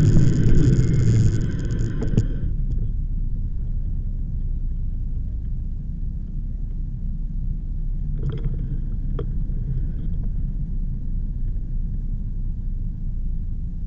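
Steady low wind rumble buffeting the microphone of a moving bike-mounted camera. A louder noise with a whine over it stops about two seconds in.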